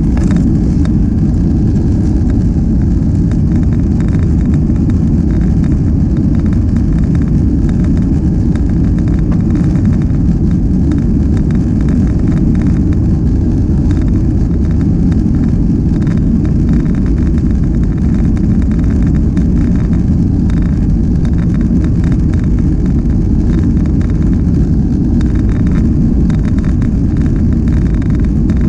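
Steady, loud rumble inside the cabin of a Boeing 737: jet engines running and airframe noise heard from a passenger seat.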